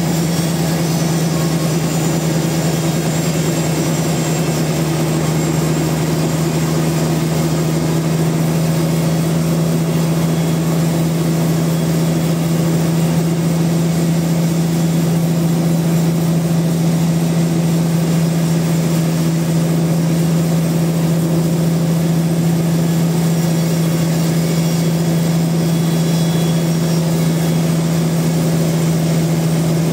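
Sawmill machinery running steadily, a loud constant low hum under a mechanical din that does not change.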